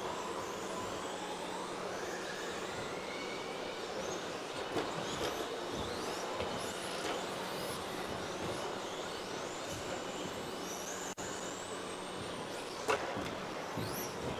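Several RC race trucks with 13.5-turn brushless electric motors racing, their motors whining up and down in pitch as they accelerate and brake, over a steady haze of tyre and track noise. A sharp knock sounds near the end.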